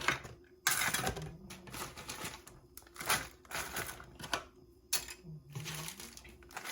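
Plastic model kit parts and their packaging being handled: irregular clicks, clatter and rustling.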